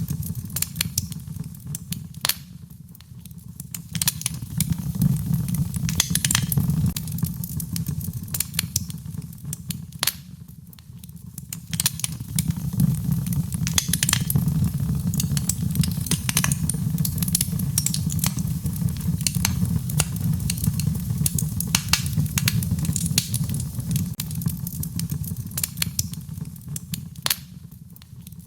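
Wood fire in a fireplace crackling, with irregular sharp pops and snaps over a steady low rumble. The crackling thins out briefly a few times.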